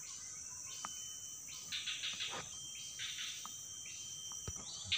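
A steady high insect buzz from the swamp forest, with repeated chirping calls about once a second, a few sharp clicks and a short rustle about two seconds in.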